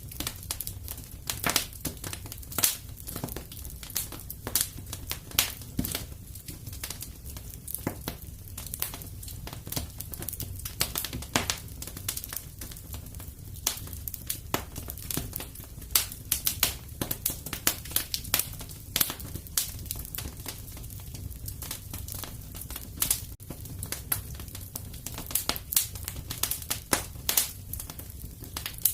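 Fireplace crackling steadily: wood fire with irregular sharp pops and snaps over a low, even rumble of the flames.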